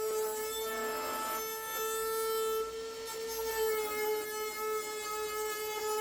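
CNC router spindle running with a steady high whine while its bit cuts wood, with a rougher stretch of cutting noise about a second in.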